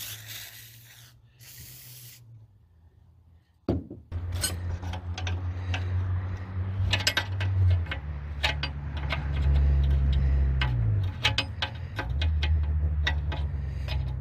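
Hand tools working on the nuts of an old engine's cylinder head: sharp metal clinks and scraping, over a low hum that wavers in pitch and starts about four seconds in. A hiss lasts about two seconds at the start.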